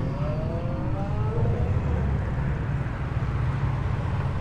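Car engine accelerating, its pitch rising over the first couple of seconds, over a steady low rumble.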